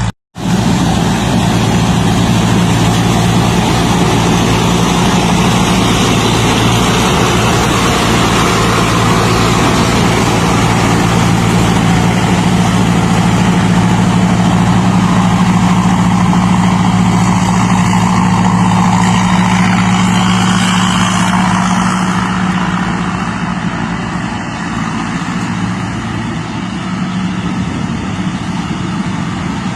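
Combine harvester's diesel engine running steadily with broad mechanical clatter, the sound briefly cutting out just after the start and easing slightly about two-thirds through.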